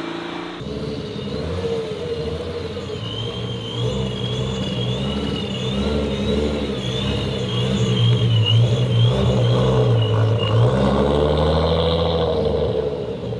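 A modified car's engine running as it pulls away, getting louder in the second half, with a high wavering whistle over it for several seconds.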